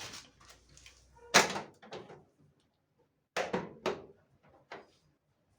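Sharp knocks and clacks of hard parts being handled and set down during a tumble dryer repair. The loudest comes about a second and a half in, and a quicker cluster of three or four follows in the second half.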